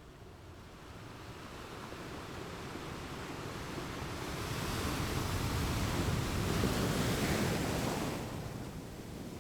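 Ocean surf: a wave builds over several seconds into a crash and rushing wash about two-thirds of the way in, then recedes near the end.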